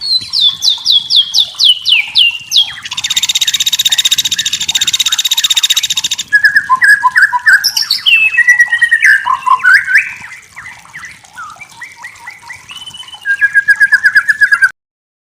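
White-rumped shama (murai batu) singing: first a run of quick falling whistled notes, then a harsh, fast rattling phrase for about three seconds, then varied whistles and slurs. It ends with a quick string of repeated notes that cuts off suddenly near the end.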